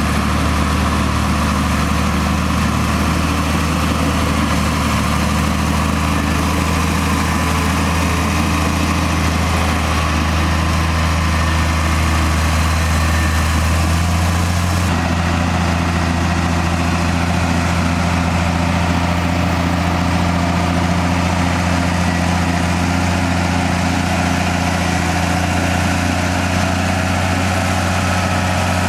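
Komatsu D58E bulldozer's diesel engine running steadily. Its tone shifts abruptly about halfway through.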